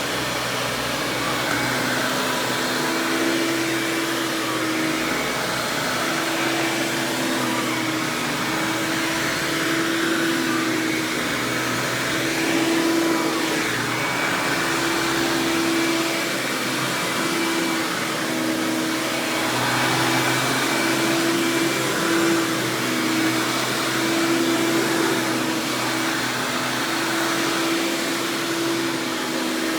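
Hoover Power Drive Supreme upright vacuum (model U6318-930), fitted with a Quadraflex brush roll, running steadily after being switched on. A humming tone wavers in and out over the steady motor noise.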